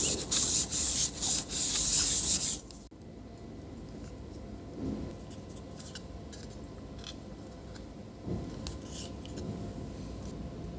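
Rasping scrape of a pry tool working the swollen, glued-in battery of a MacBook Pro A1278 loose, cutting off abruptly about three seconds in; then only faint handling clicks and taps.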